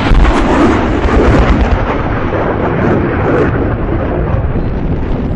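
Airshow pyrotechnic blast simulating a 1,000-pound retard bomb: a deep boom at the start, then loud rolling rumble that eases slightly.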